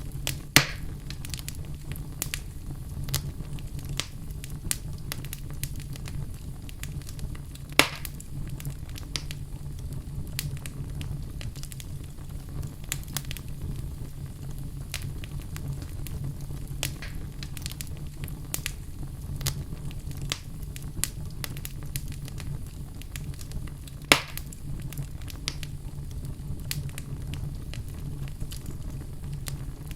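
Wood fire burning in a fireplace: a steady low rumble of flames with frequent small crackles and three louder pops, about half a second in, near eight seconds and near twenty-four seconds.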